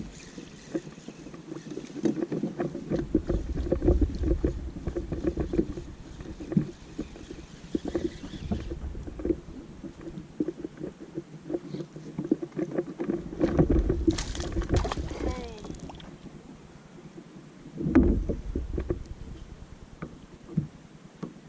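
Irregular knocks and rumbles from a fishing kayak and the gear aboard it on the water, with heavier rumbling spells a few seconds in, around the middle and near the end.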